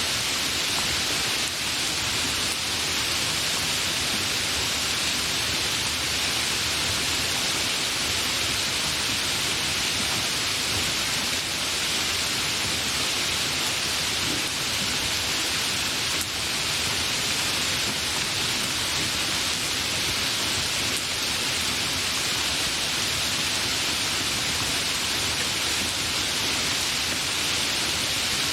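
Steady, fairly heavy rain falling, an even hiss without thunder.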